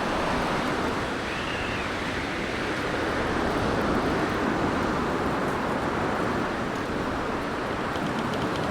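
Blizzard wind blowing in a steady rush of noise that swells slightly and eases, with a brief faint whistle about a second in.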